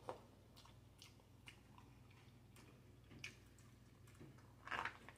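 Faint chewing of a mouthful of boiled seafood-boil potato, with a few scattered soft, wet mouth clicks and smacks. The loudest comes near the end.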